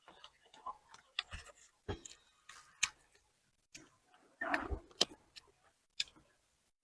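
Scattered light clicks and taps of chopsticks on bowls and plates, irregular, with a softer, fuller knock about four and a half seconds in.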